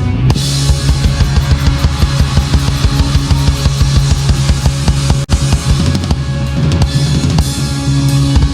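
Live rock band playing an instrumental passage without vocals: busy drum kit with bass drum, snare and cymbals over steady bass notes, with a momentary drop-out about five seconds in.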